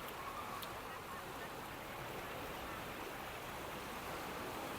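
Steady wash of sea surf and wind on a beach.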